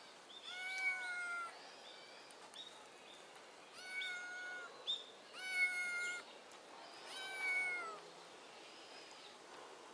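A kitten meowing four times. The calls are high-pitched, each lasting under a second and dipping slightly in pitch at the end.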